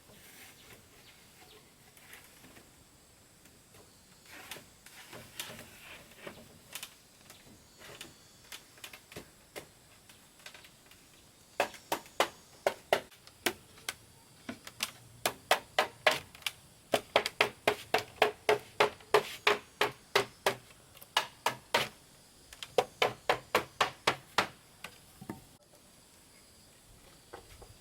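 Hand tool striking wood in quick, evenly paced runs of sharp strikes, about three or four a second, with short pauses between runs. Lighter scattered taps come before them.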